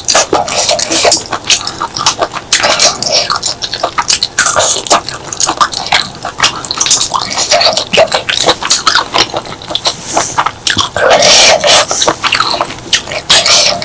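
Close-miked eating sounds: wet chewing, lip smacks and mouth clicks from someone eating clams in chili paste, with a louder wet stretch about eleven seconds in.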